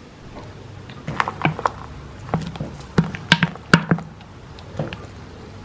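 Kitchenware being handled: a quick run of light knocks and clicks, with a few duller thuds, between about one and four seconds in.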